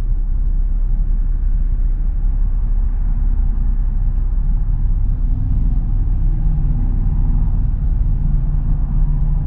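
Vehicle engine running, heard from inside the cab as a steady low rumble.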